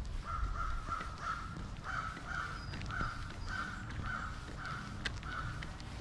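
A bird calling in a run of about ten short, evenly repeated calls, roughly two a second, with a brief gap about two seconds in, over a low background rumble.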